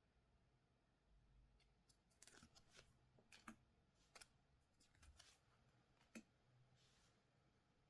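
Faint handling of trading-card packs and cards: a scatter of light clicks and crinkles, two of them sharper, then a soft rustle near the end.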